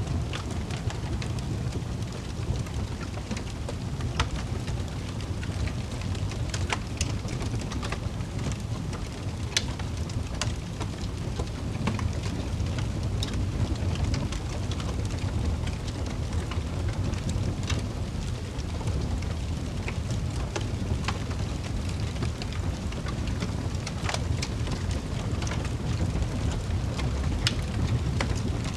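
Wood fire crackling in a fireplace: scattered sharp pops and snaps, a few a second and irregular, over a steady low roar.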